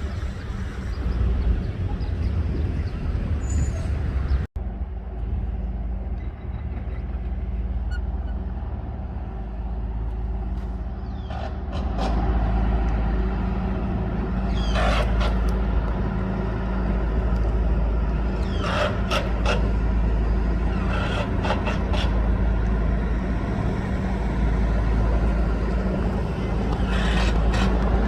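Freight train rolling past: a steady low rumble with a few short, high squeals every few seconds in the second half.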